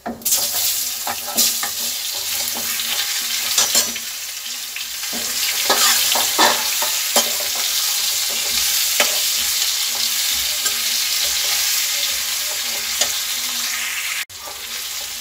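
Cut mango pieces hitting hot spiced oil in a nonstick kadhai, setting off a loud sizzle that begins a moment in and carries on as a steel ladle stirs them, with occasional clinks and scrapes of the ladle against the pan. The sizzle breaks off briefly near the end.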